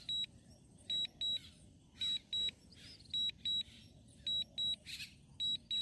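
DJI drone controller's low-battery alarm: a high double beep repeating about once a second, five pairs in all, warning that the DJI Mini 3 Pro's battery is critically low.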